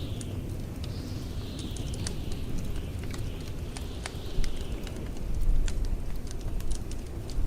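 Wood fire crackling in a fireplace, with scattered sharp pops, over the low steady rumble of blizzard wind. A thin, high wind whistle slides down in pitch every couple of seconds.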